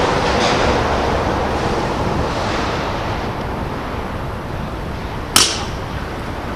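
Wind buffeting the microphone as a steady rushing noise, with a single sharp crack about five seconds in from the baseball play.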